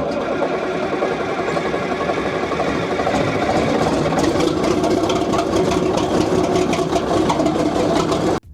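Komatsu D75-S track loader's diesel engine running steadily, with a dense knocking clatter that grows slightly louder about three seconds in.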